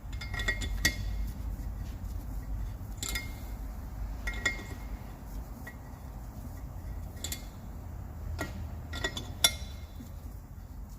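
Scattered sharp metallic clinks and taps, about eight of them at irregular intervals, of a steel injector-seat cleaning tool working in the injector bores of a 1.9 TDI PD cylinder head, over a low steady hum.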